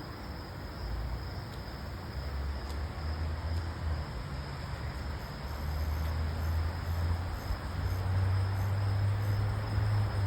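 Outdoor ambience: a low rumble that builds through the second half, with faint, very high insect chirps repeating a few times a second.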